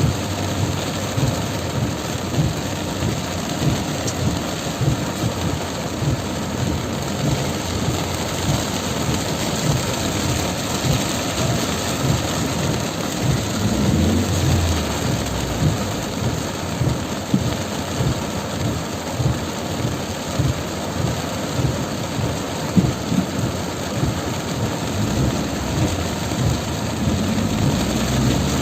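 Heavy tropical rain pouring down: a dense, steady hiss with constant low rumbling underneath. A low hum swells briefly about halfway through and again near the end.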